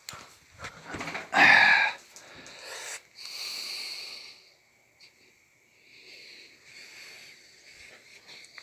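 Dog snorting and breathing noisily: a loud huff about a second and a half in, a softer hissing breath a couple of seconds later, then quieter snuffling.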